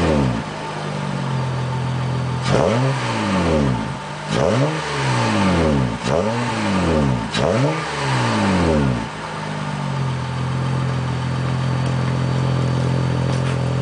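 Acura RL's V6 exhaust, revved in four quick blips a second or two apart, each rising and falling back, then settling to a steady idle for the last few seconds.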